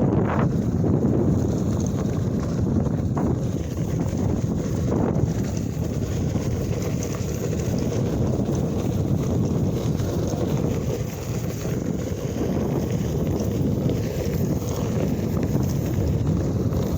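Wind buffeting the microphone while riding, a steady low rumble with no clear tone.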